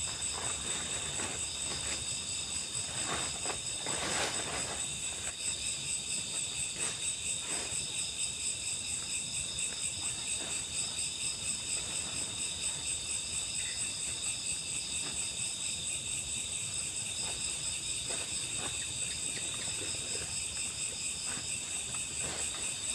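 Forest insects such as crickets singing in a steady high-pitched chorus that pulses evenly, with scattered faint clicks and rustles.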